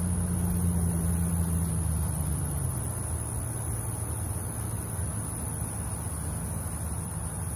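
A low engine hum, its pitched drone fading down about two to three seconds in, over a steady high whine.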